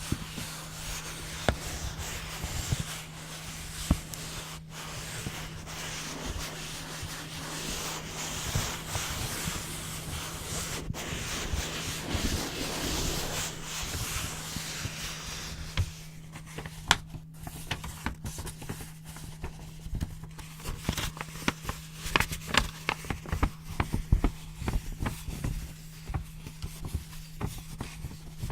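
White paper rubbed and rustled close to the microphone in a continuous rustle. From about halfway this gives way to a scatter of short, crisp snips, scissors cutting the paper.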